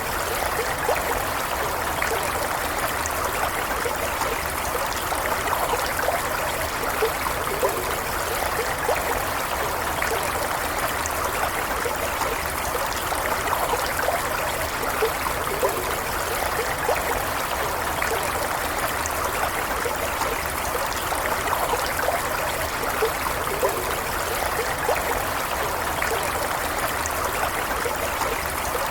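Small stream running steadily over stones: an even rush of water with fine trickling and small splashes.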